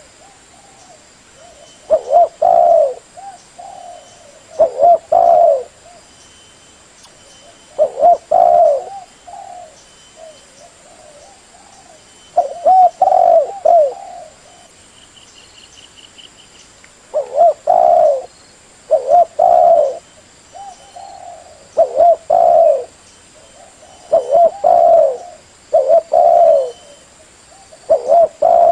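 Spotted dove cooing: repeated phrases of several low, hooting notes, one phrase every two to three seconds. Faint high chirps and a brief trill from a smaller bird sound between the phrases.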